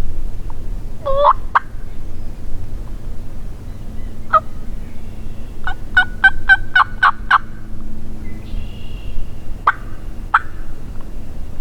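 Turkey yelping: a few single notes, then a quick run of about eight sharp yelps in the middle and two more near the end.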